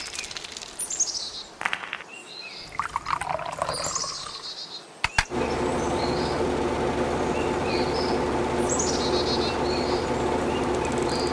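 Small birds chirping in quick falling trills, with a few sharp clicks. About five seconds in, two sharp clicks are followed by a steady hum that starts suddenly and keeps going.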